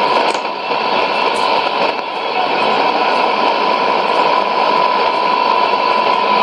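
Shortwave radio receiver hiss and static on 9975 kHz, with a steady high whistle tone running through the noise and no programme audible.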